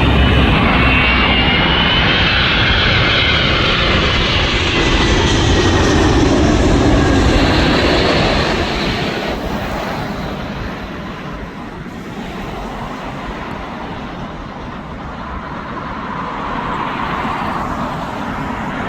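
Large jet airliner on final approach passing low overhead, its engines running with a high whine that slides down in pitch over the first several seconds, then fading as it moves away.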